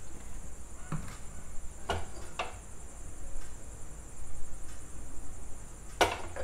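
A few light knocks and clicks of a frying pan and utensils on a gas stove while a little oil heats in the pan, the loudest near the end. Under them, crickets chirr steadily and high.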